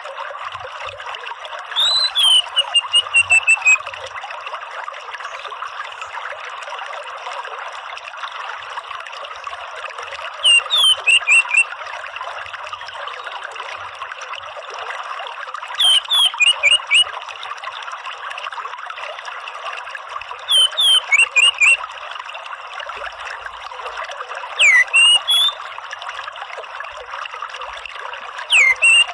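Orange-headed thrush calling in six short phrases, one every four to five seconds, each a quick run of falling notes, over a steady trickle of running water.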